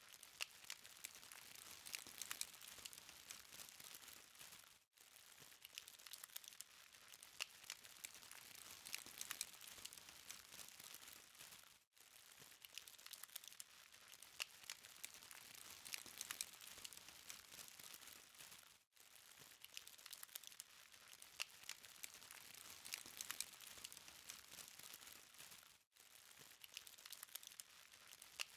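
Charcoal fire burning, with a faint hiss and many small crackles and pops. The sound cuts out briefly every seven seconds or so.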